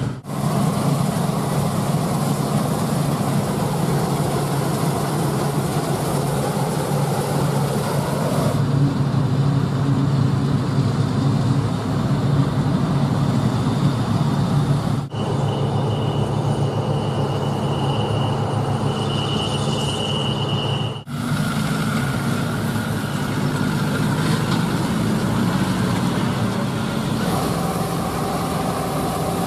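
Diesel-engined harvest machinery, combine harvesters and tractors, working a barley field: a steady, loud engine drone that changes character at several abrupt cuts between shots. In one shot, about halfway through and lasting some six seconds, a steady high whine sits over the drone.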